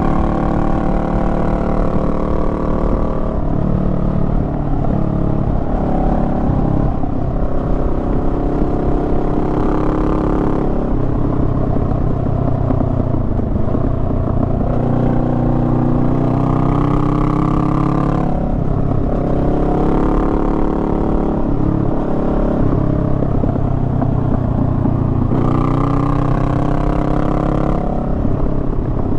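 Honda Rebel 500's parallel-twin engine running under way, heard from the rider's seat. Engine speed rises and falls as the throttle is worked, with sharp drops in pitch several times.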